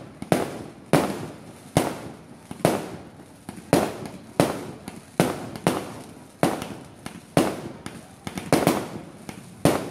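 Fireworks bursting in the air in quick succession: a continual string of sharp bangs, one or two a second, each trailing off briefly.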